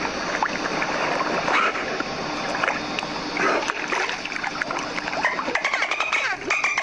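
Dolphins whistling and clicking amid water splashing: gliding whistles, with rapid click trains that grow dense near the end.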